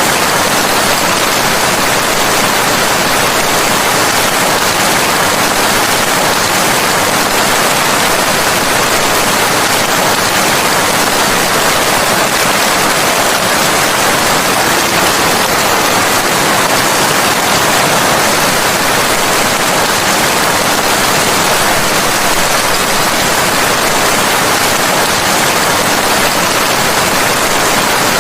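Steady, dense rain: an even, unbroken hiss of rainfall.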